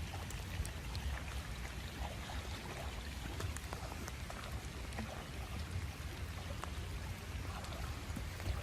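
Water splashing and dripping in many small scattered drops over a steady low rumble.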